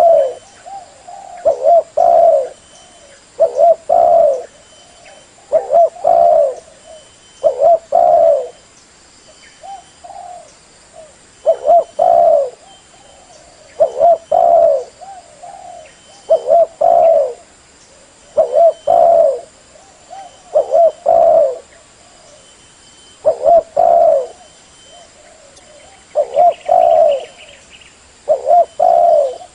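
Female spotted dove cooing: short groups of two or three coos repeated about every two seconds, with softer coos in between.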